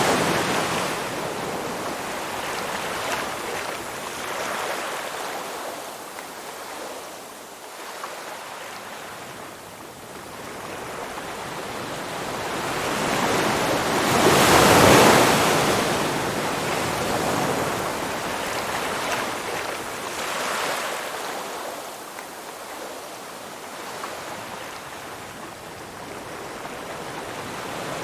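Ocean waves surging and washing ashore in slow swells, the largest breaking about halfway through.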